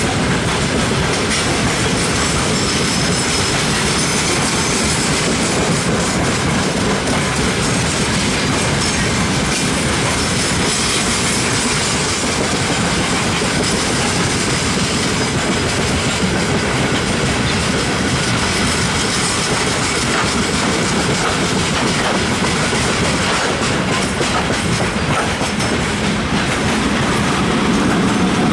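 Freight train of gondola cars rolling past, the wagon wheels clattering steadily over the rail joints.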